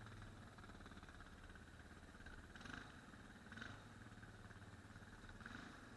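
Faint, steady low hum of an ATV engine idling, with a few brief, soft higher-pitched swells.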